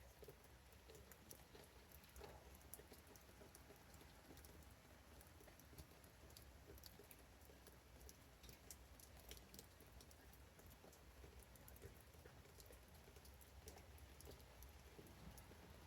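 Faint patter of rain: scattered light drops ticking irregularly over a low, steady rumble.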